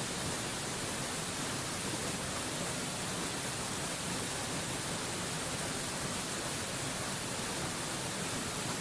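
Waterfall rushing steadily, an even hiss that stays the same throughout.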